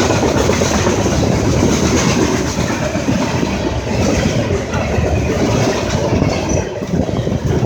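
A train passing at very close range: a loud, steady rumble of steel wheels on the rails, with a dense run of rapid wheel clicks.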